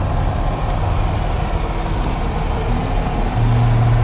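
A vehicle engine running with a steady low drone; a stronger low hum comes in about three seconds in.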